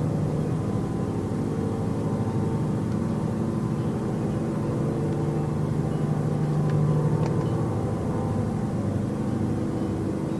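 A steady, continuous low mechanical drone made of several hum tones, swelling a little about seven seconds in. It sounds like a distant airplane but runs on without a break.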